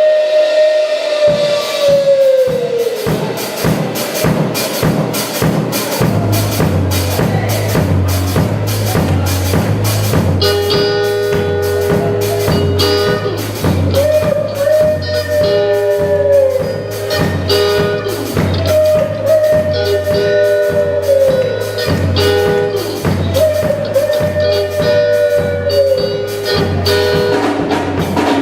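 Live gospel band playing an instrumental intro: drums keep a fast, even beat, a bass line comes in about six seconds in, and a held high note that bends downward returns every few seconds.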